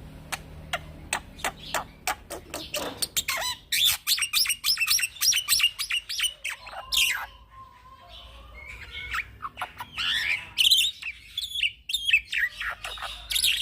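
Young black-winged myna (jalak putih) singing without pause in a long, varied song. It opens with a run of sharp clicks that speed up, then breaks into fast chattering and whistled phrases. After a short lull, more calls follow.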